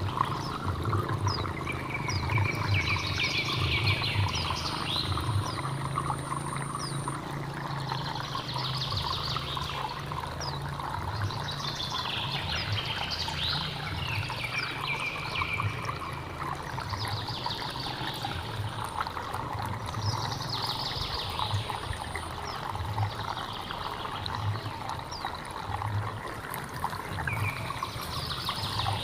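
A hill stream flowing and trickling steadily, with birds calling in short, rapid high bursts every three to four seconds.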